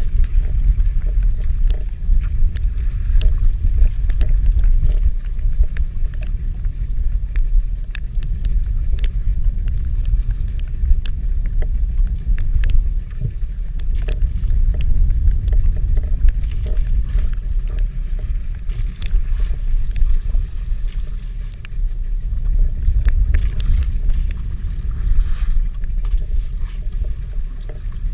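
Low, uneven rumble of wind on the microphone aboard a small fishing boat at sea, with scattered light ticks throughout.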